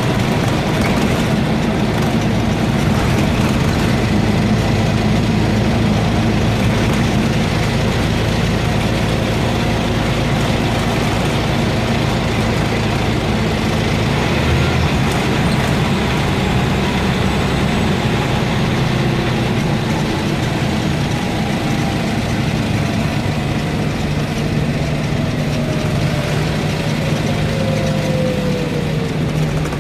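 Scania N230UB bus's nine-litre five-cylinder diesel engine running steadily. The drone changes character about halfway through, and a whine falls in pitch near the end.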